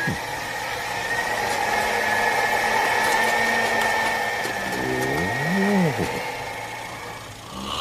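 Cartoon sound effect of a Mini's engine idling steadily, with a thin high steady whine over it. About five and a half seconds in, a short sound rises and falls in pitch.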